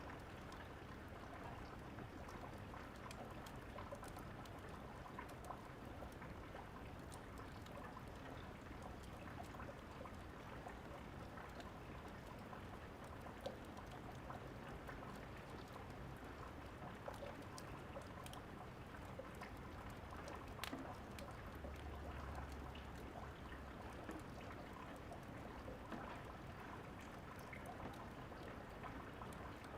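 Steady rain falling, with scattered sharp crackles and pops of a wood fire. A brief low rumble comes about three quarters of the way through.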